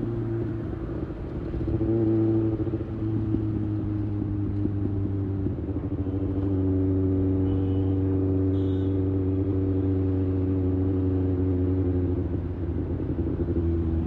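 2024 Kawasaki ZX-6R's 636 cc in-line four-cylinder engine running at steady highway cruising revs. The engine note dips briefly and climbs back about two seconds in, then falls in pitch near the end.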